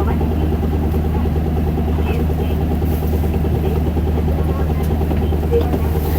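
Isuzu Erga city bus's four-cylinder diesel engine running steadily at low revs, heard from inside the bus, with a few faint ticks.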